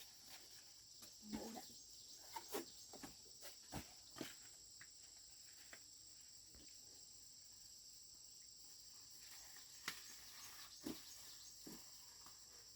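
Faint, steady high-pitched chirring of insects in the field, with scattered soft clicks and rustles: a cluster in the first few seconds and a few more about ten seconds in.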